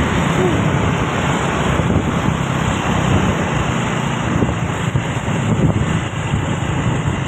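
Truck on the road, its engine running and its tyres humming in a steady noise, with wind buffeting the microphone.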